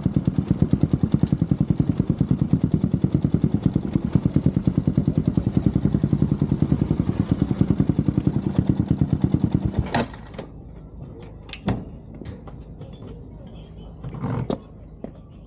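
Honda CB400SS single-cylinder engine idling with an even, rapid pulse, then switched off about ten seconds in. A few light clicks and knocks follow.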